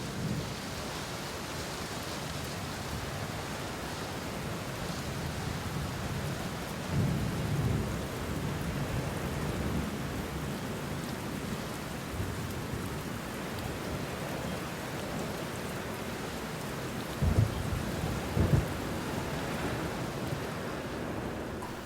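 Steady hiss of rain falling, with a brief low rumble about seven seconds in and two short low bumps a little before the end.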